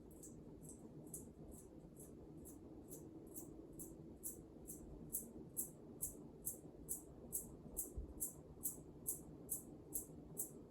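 Emerson K55-motor ceiling fan with heavy plastic blades running on medium speed: a steady low hum with a rhythmic pulse about two to three times a second that grows stronger over the second half. The plastic blades are hard to balance and the fan shakes around a bit.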